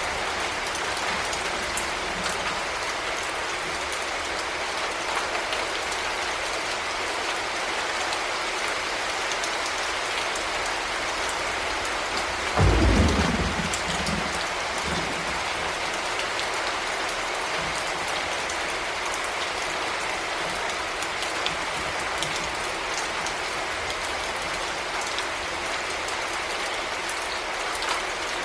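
Heavy rain falling steadily, with one short, loud rumble of thunder about halfway through.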